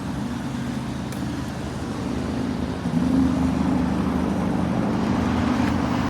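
Heavy truck's diesel engine running steadily, picking up revs about three seconds in.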